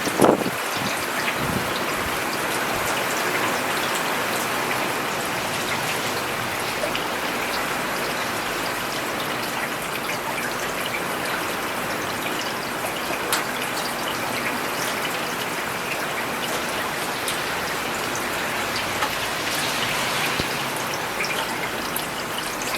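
Steady rain falling on an urban road, a constant hiss with scattered closer drops ticking. A low rumble fades out in the first half second.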